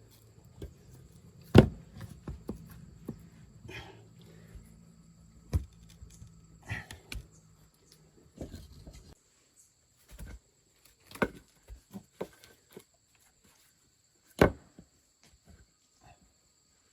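Irregular sharp knocks and thuds a few seconds apart, with scraping and rustling between; the loudest come about a second and a half in and near the end. A low hum runs under the first half.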